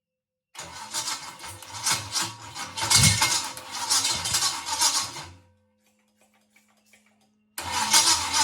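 Small-block 350 Chevy V8 running loudly on its first start, fading away as it shuts off about five seconds in. After a pause with a few faint ticks it is running again near the end.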